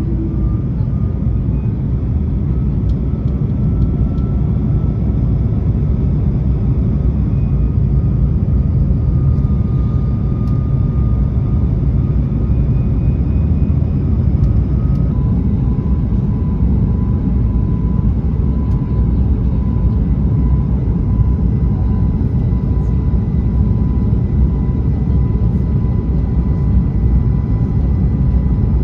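Steady airliner cabin noise from an Airbus A220-300 with its geared turbofan engines running: a deep, even rush of air and engine noise, with a faint high whine that shifts slightly in pitch about halfway through.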